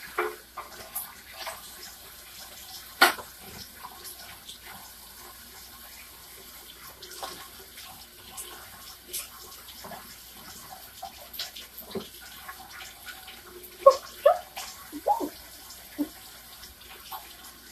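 Kitchen tap running into a sink while a basting brush is rinsed out, with scattered clinks and knocks of utensils; the loudest is a sharp knock about three seconds in, with a cluster of clatter near the end.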